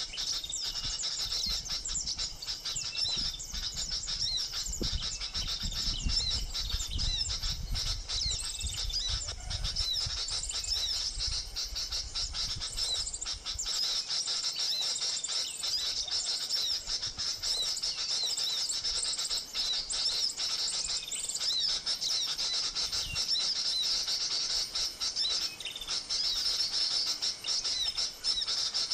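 Continuous rapid, high chirping and twittering of small birds, sunbird-type calls, from a lure call played on a phone to draw birds to a trap. A low rumble sits under it for about the first half.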